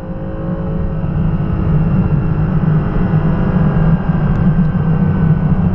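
Car engine and road noise at a steady low drone, with faint engine tones sinking slowly in pitch.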